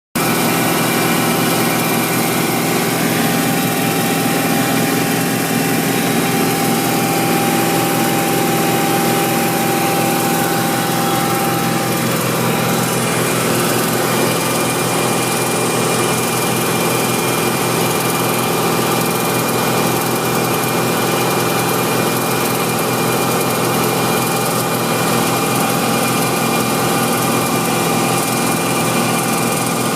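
BMW M60 V8 engine running at a steady 2500 rpm, with an erratic, irregular ticking over the engine note.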